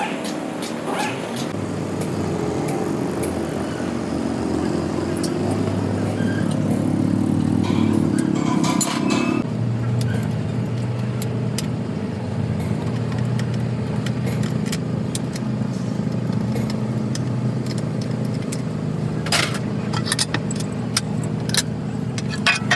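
An engine running steadily; its note shifts about nine and a half seconds in. Light metallic clinks sound near the end.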